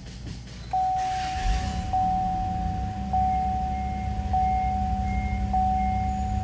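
2014 Chevrolet Impala's 3.6-litre V6 being started: a brief crank about a second in, then the engine catches and runs. Throughout, the car's warning chime repeats about once a second.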